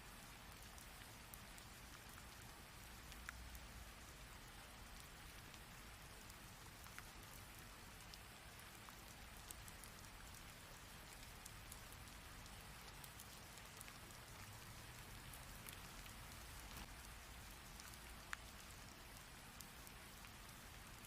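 Heavy rain falling steadily and faintly: a dense, even hiss with scattered sharp drop ticks, one louder tick near the end.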